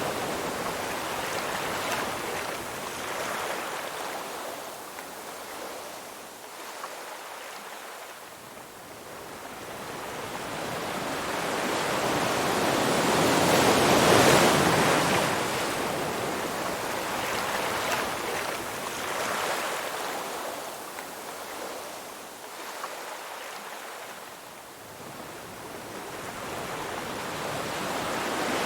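Ocean waves breaking on a shore: the surf builds to a loud crash near the middle, then washes back and fades, with quieter lulls before and after.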